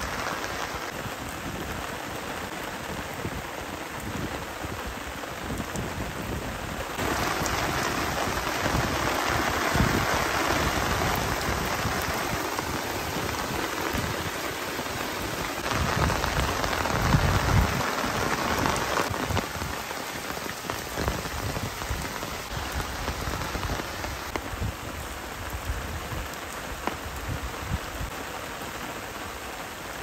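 Heavy rain falling steadily, growing louder through the middle stretch, with a few low rumbles about halfway through.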